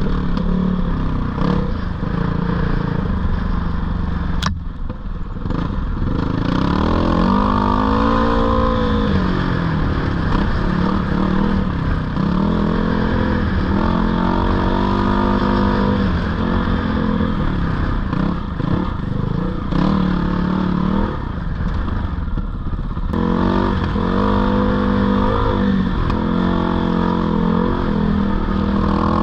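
Dirt bike engine revving up and down while riding, its pitch rising and falling with the throttle and dropping off briefly twice.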